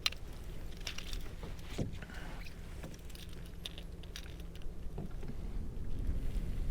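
Scattered light clicks, taps and small rattles of metal pliers and hook being worked on a kayak, over a low steady rumble.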